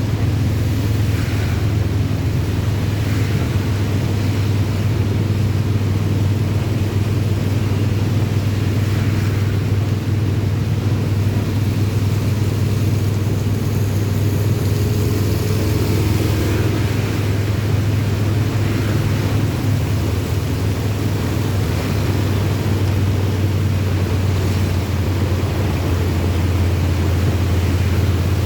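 A vehicle driving along a rain-soaked road: a steady low rumble with an even hiss of rain and wet tyres above it.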